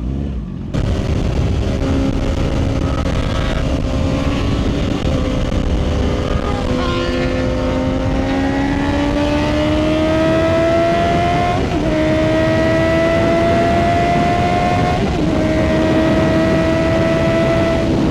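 Motorcycle engine under way, heard together with heavy wind rush. The engine note climbs slowly and briefly breaks twice, near the middle and about three-quarters in.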